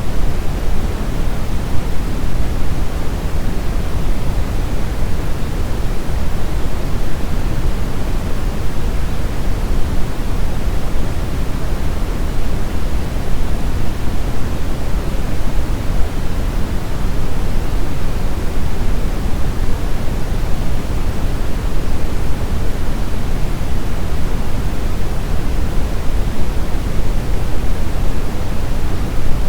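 Brown noise: a steady, even hiss weighted toward the low end, with a deep rumble and little treble, unchanging throughout.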